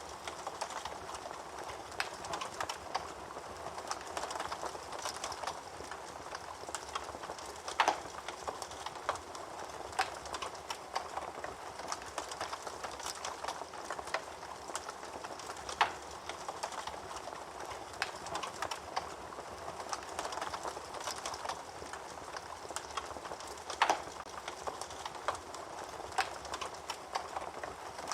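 Wood fire burning in a fireplace: a steady crackle and hiss with many small snaps and a few louder pops.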